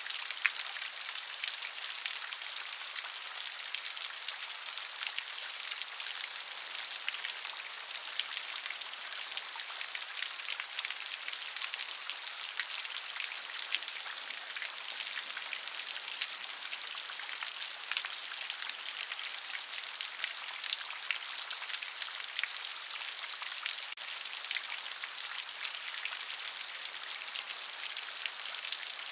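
Steady rain falling, a dense hiss of many fine drop ticks with no rumble beneath.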